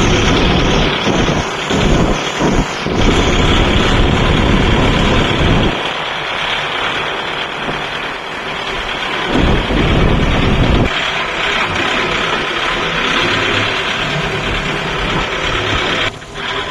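Kubota MU5502 tractor's diesel engine running loud under load, the low rumble surging and easing, then dropping suddenly near the end.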